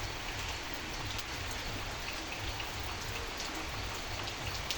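Steady light rain falling, an even hiss with scattered individual drops ticking close by, one sharper drop near the end.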